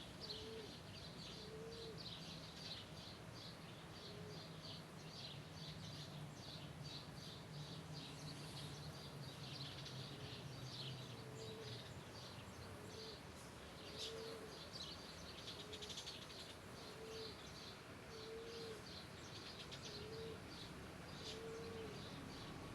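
Birds chirping, dense short high calls throughout, with a short low call repeating about every second and a half.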